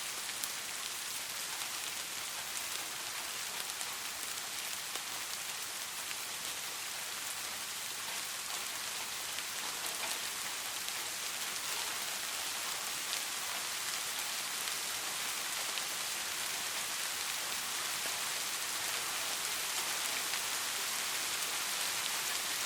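Steady rain falling, an even hiss with faint scattered drop ticks, growing slightly louder toward the end.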